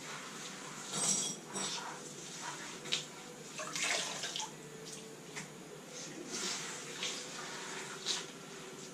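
Scattered clinks, clicks and rustling from tools and parts being handled while a classic Mini engine is taken out, over a faint steady hum.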